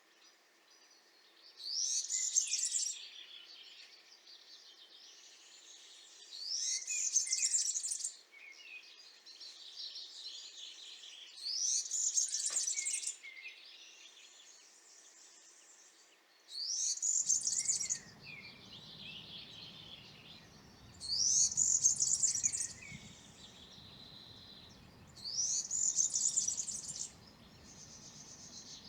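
European serin singing: six high, fast jingling song phrases of about a second and a half each, spaced roughly every four to five seconds, with softer high notes between them.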